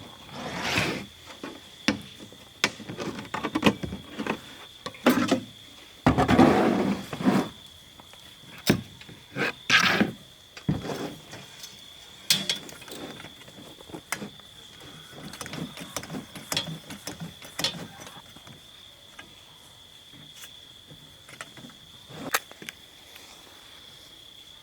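Crickets chirring steadily in the background, with irregular knocks, clicks and rustles over it, loudest about a second in and again around six to seven seconds in.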